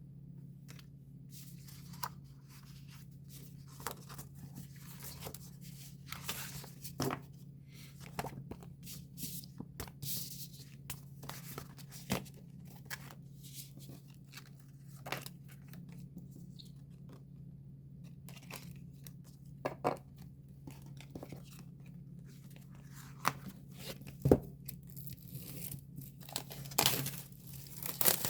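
Paper and plastic album packaging being torn and handled: irregular rustling, crinkling and small clicks, some louder near the end, over a steady low hum.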